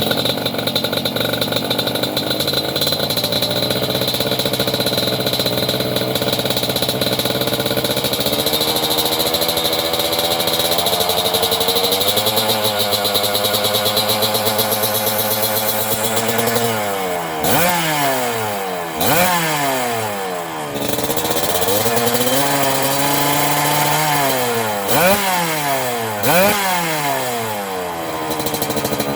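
Suzuki TS 125 two-stroke single-cylinder engine running through a full stainless-steel aftermarket exhaust: steady idle at first, then gently brought up in revs, then several quick throttle blips in the second half, each rev climbing and dropping back sharply.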